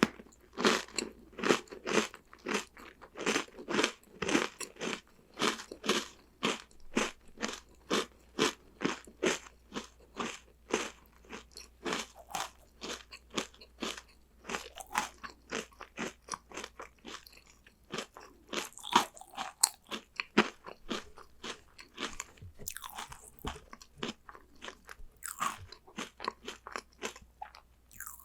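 Close-miked crunching and chewing of crunchy chocolate snacks, a steady run of about three crunches a second that thins out to slower, softer chewing in the second half.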